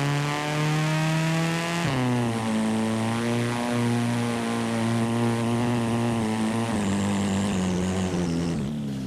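Simulated car engine sound from a driving video game, running at high revs. Its pitch climbs slowly, drops sharply about two seconds in, holds fairly steady, then drops again twice near the end.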